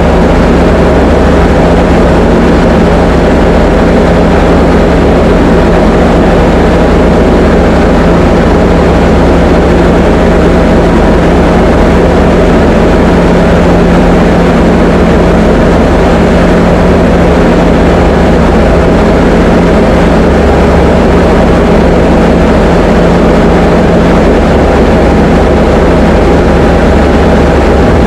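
Diamond DA20 light aircraft's piston engine and propeller running at a steady setting: a loud, constant drone with a steady hum, heard from inside the cockpit.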